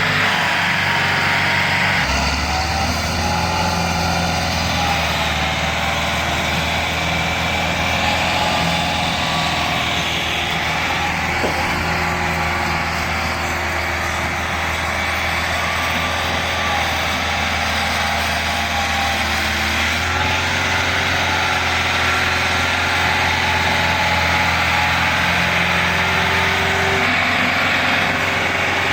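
Tractor diesel engines running steadily under load, hauling a loaded trolley through mud; the engine note shifts about two seconds in and again around twenty seconds.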